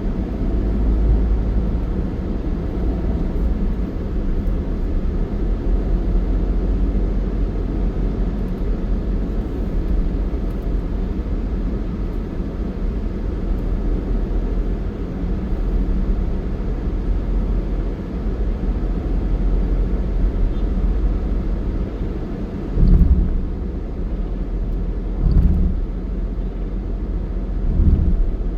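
Steady low rumble of a road vehicle in motion, with three heavier low thumps in the last several seconds.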